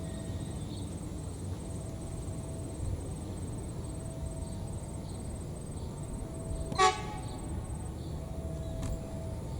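Low, steady rumble of a train running on the track, with a single short horn toot about seven seconds in.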